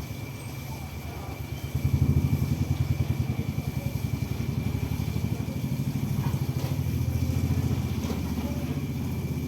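An engine running with a fast, even pulse, growing louder about two seconds in, with a thin steady high whine over it.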